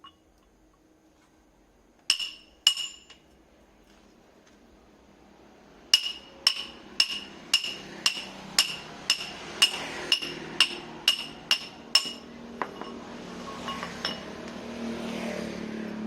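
Metal being struck with a hammer: two ringing clinks, a pause, then a steady run of about a dozen even blows, roughly two a second. After the blows stop, a rising hissing, scraping noise builds up.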